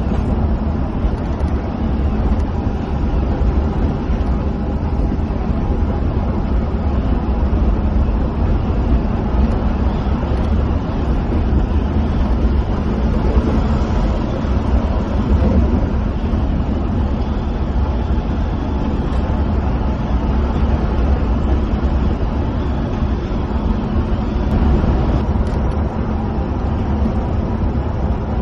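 Coach bus cruising at steady speed, heard inside the cabin: a constant low engine drone under the rumble of the tyres on the road.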